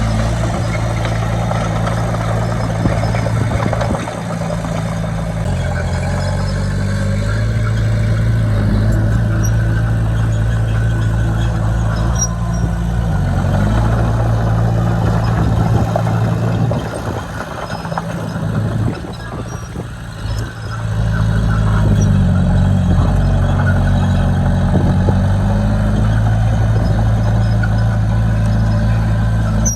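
Heavy-equipment diesel engine running under load, its pitch stepping up and down several times. It eases off for a few seconds partway through, then comes back up.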